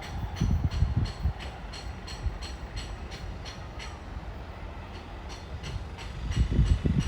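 Express train's wheels clacking over rail joints in a steady rhythm of about three clicks a second, over a low rumble, with louder low buffeting rumbles about half a second in and again near the end.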